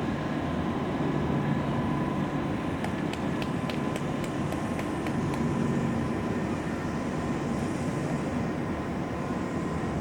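Steady mechanical rumble and hum with a thin constant whine, and a quick run of about ten clicks in the middle.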